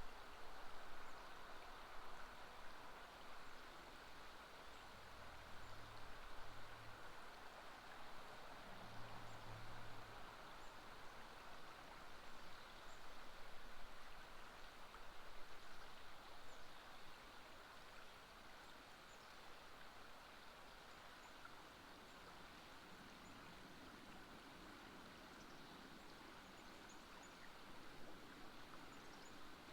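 River water flowing, a faint steady rush.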